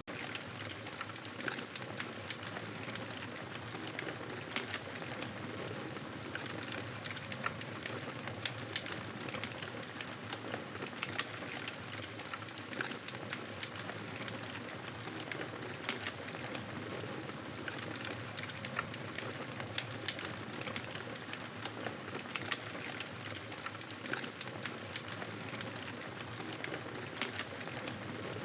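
Campfire crackling: a steady hiss with frequent sharp pops and snaps throughout.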